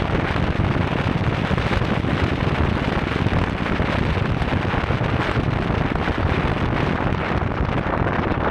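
A steady, even rushing noise, heaviest in the low end, that starts abruptly at a cut.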